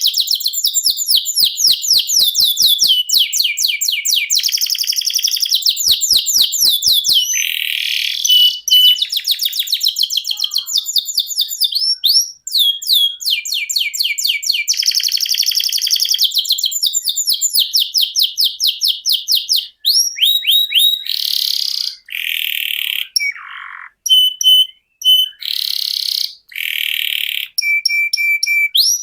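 Domestic canary singing a long, nearly continuous song of rolled trills, each a fast run of repeated high sweeping notes. The trills change from one run to the next, with a few harsher, buzzy phrases in the second half and brief pauses.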